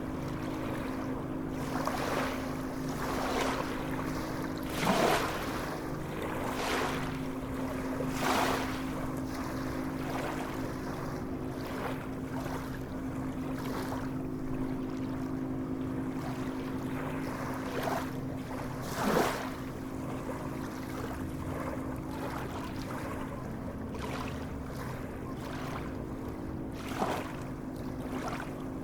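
Sea waves lapping and splashing at irregular intervals, several seconds apart, over a steady low hum.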